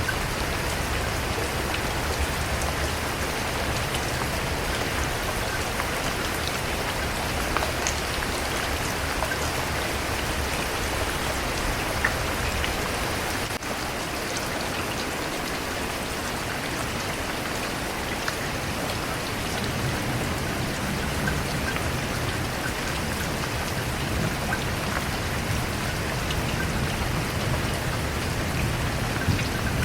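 Steady rain falling, with single drops ticking on a surface. A low rumble underneath fades out around the middle and comes back later.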